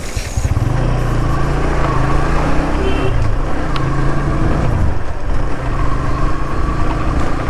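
Motorcycle engine running while riding, its pitch rising and falling with speed, under steady wind and road noise.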